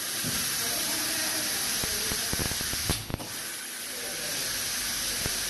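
Steady hiss, like escaping compressed air, with a few scattered mechanical clicks and one sharper knock about three seconds in.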